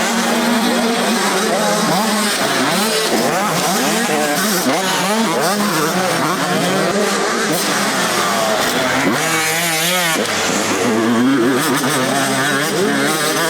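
Several motocross bikes racing together, their engines revving up and falling back repeatedly as they shift and accelerate, the overlapping engine notes rising and falling. About nine seconds in, one bike passes close with a wavering, louder engine note.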